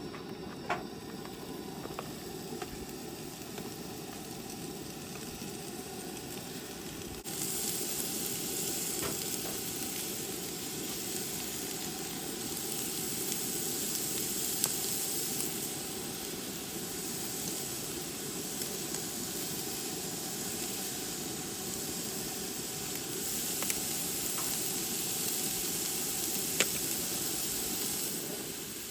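Food frying in a hot pan: a steady sizzle that turns suddenly louder about seven seconds in and eases just before the end, with a few light clicks.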